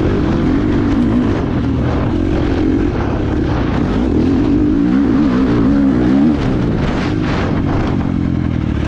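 Four-stroke 350 motocross bike engine being ridden. The engine note rises and falls as the throttle is worked, climbing to its loudest about six seconds in and then dropping away.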